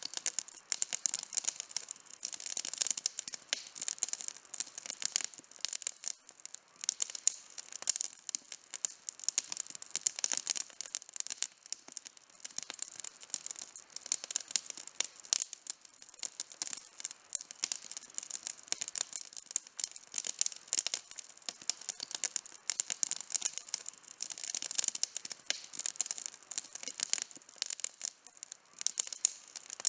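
Outdoor campfire burning, wood crackling and popping in a dense, irregular stream of sharp snaps.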